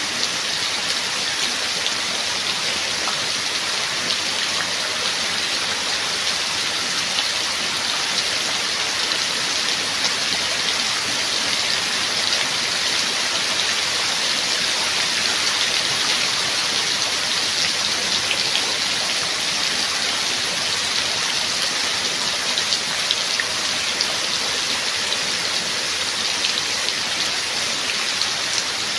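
Steady rain falling, a dense even hiss of drops with fine patters of individual raindrops on a surface.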